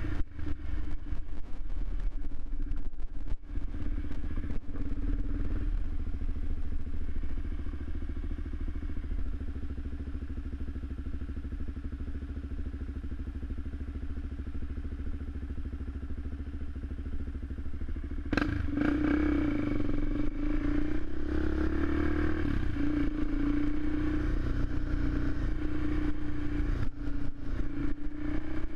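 Suzuki LTZ400 quad's single-cylinder four-stroke engine running, with scattered clattering knocks in the first few seconds. About 18 seconds in there is a sharp click, and the engine sound becomes louder and busier.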